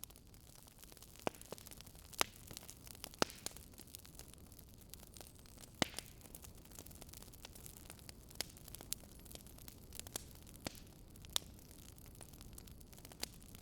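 Wood fire crackling softly: irregular sharp pops and snaps, a dozen or so spread unevenly, over a faint steady hiss.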